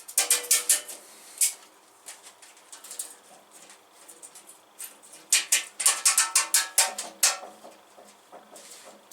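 Hard objects being handled, with rapid sharp clicks and knocks in two bursts: one right at the start and a longer one in the middle, with scattered light ticks between them.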